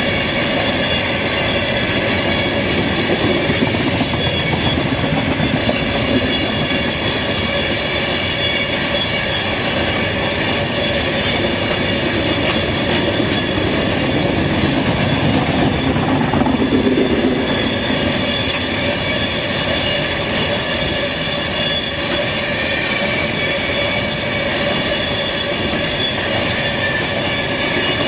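Norfolk Southern train rolling steadily past: loud, continuous rumble and clatter of wheels on rail, with a steady high squeal running through it.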